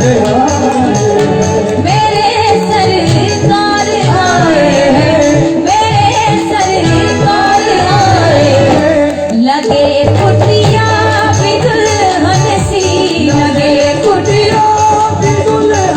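Devotional bhajan music: a wavering melody carried over drums and jingling percussion keeping a steady beat.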